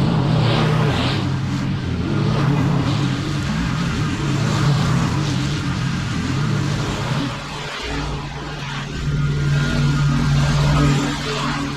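Small petrol engine of lawn equipment running steadily under work; its note dips briefly a little under eight seconds in, then picks up again.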